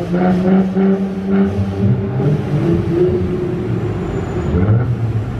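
Mercedes-Benz car with an aftermarket exhaust, its engine running loudly with an exhaust note that rises and falls gently in pitch.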